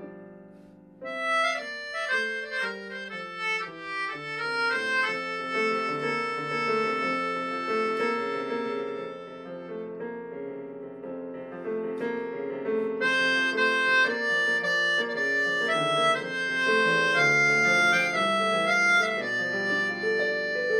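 Instrumental music: a harmonica playing a stepwise melody over sustained lower chords, coming in about a second in after a short lull and easing off briefly midway.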